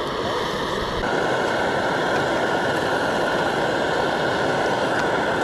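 A steady roaring hum with a faint held whine, its pitch stepping slightly about a second in.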